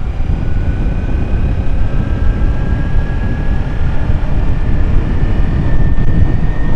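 Heavy wind buffeting on the microphone of a riding motorcycle, with the thin whine of the Kawasaki Ninja 300's parallel-twin engine rising slowly in pitch as the bike picks up speed.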